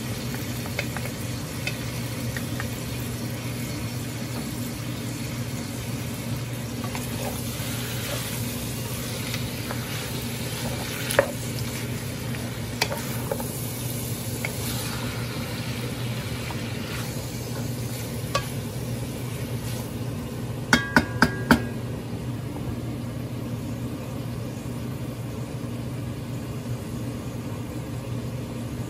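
Chopped pork and onions frying and sizzling in a pot, stirred with a wooden spatula, with scattered clicks and scrapes. About two-thirds of the way through come four quick knocks in a row.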